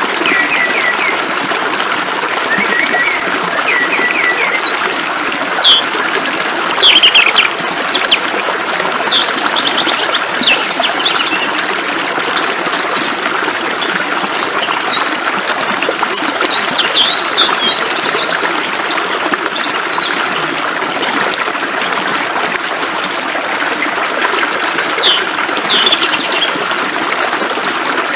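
Many songbirds chirping and trilling, most busily in the first half, over the steady rush of flowing water.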